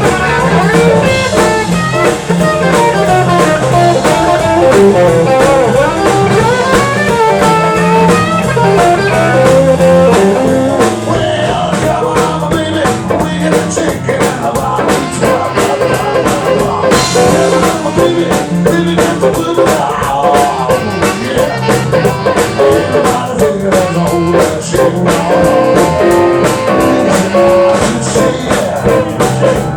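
A live band playing a blues number, with guitar and drum kit.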